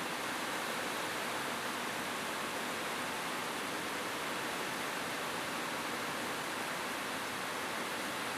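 Steady rain falling on a roof: an even, unbroken hiss with no single drops or thunder standing out.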